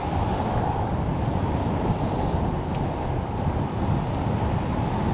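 Strong wind blowing across the camera's microphone: a loud, low rushing noise that wavers with the gusts.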